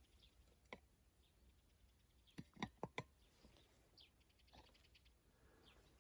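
Near silence broken by a few sharp clicks, four of them in quick succession about halfway through, with faint short bird chirps now and then.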